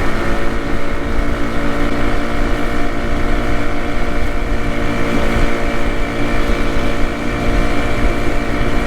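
A steady motor hum, many even tones held at one pitch, with wind buffeting the microphone.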